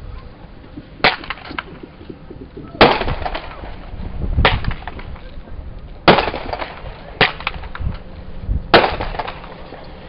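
Fireworks going off: six sharp bangs a second or two apart, each followed by a brief crackle.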